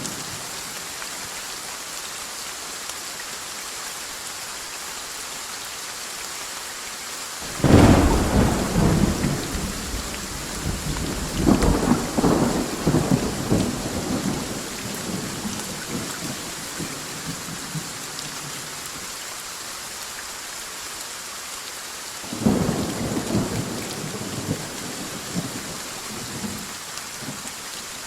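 Steady rain hissing with two thunderclaps: a sudden loud one about seven seconds in that rumbles and crackles on for several seconds, and a weaker roll about twenty-two seconds in.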